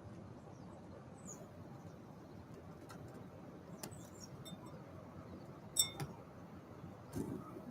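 A few short, sharp chips and clicks from small birds at a feeder, the loudest two in quick succession near the end, over a steady hiss of light rain.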